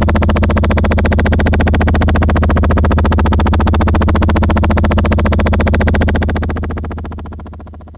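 Helicopter rotor chopping in a fast, even pulse, starting abruptly and fading out over the last two seconds.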